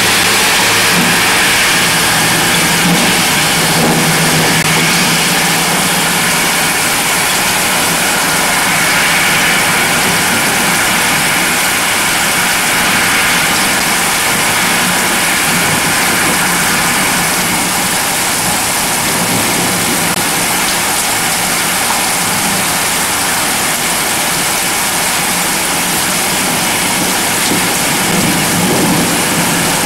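Heavy storm rain pouring down in a steady, unbroken roar.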